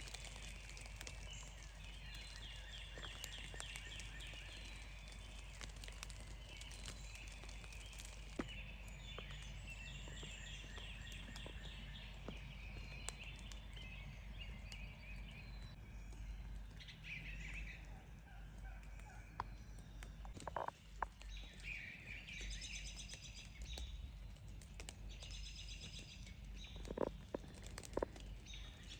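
Songbirds singing faintly in short, rapidly repeated chirping phrases over a steady low background hiss, with a few soft clicks.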